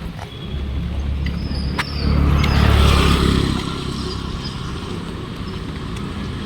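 A motor vehicle passes close by on a wet road, its engine rumble and tyre hiss swelling to a peak two to three seconds in and then easing off, over steady rain.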